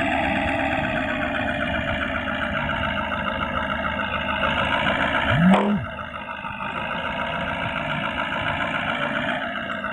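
Military truck engine running steadily. About halfway through, a short tone rises, holds briefly and falls away; it is the loudest moment, and the engine sounds a little quieter afterwards.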